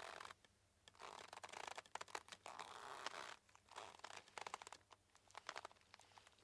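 Boat mooring ropes creaking under strain as the boat shifts. The sound comes as several drawn-out, grating creaks with short pauses between them.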